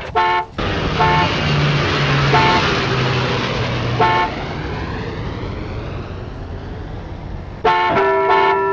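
Four short horn toots over a steady rushing noise, then bells start ringing near the end, several tones at once.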